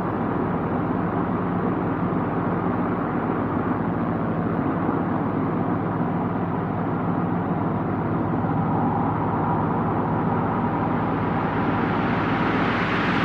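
Subaru WRX driving on a road: steady engine and tyre noise, with a slight rise near the end.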